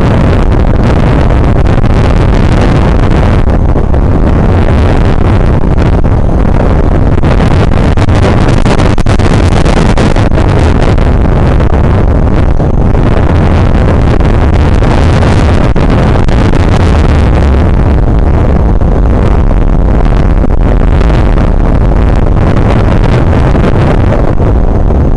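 Strong wind buffeting the microphone: a loud, constant low rumble that swells and eases with the gusts.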